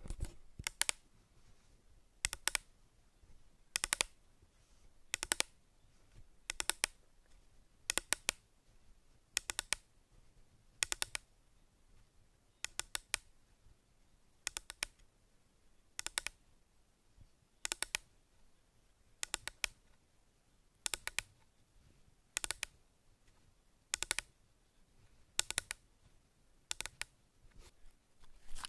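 Sharp clicks in small clusters of two or three, repeating about every one and a half seconds.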